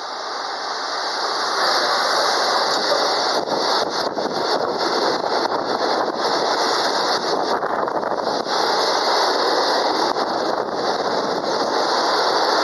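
Freight train of tank wagons rolling past close by: a loud, steady rush of wheels on rail that builds over the first couple of seconds as the locomotive goes by, then holds as the wagons pass.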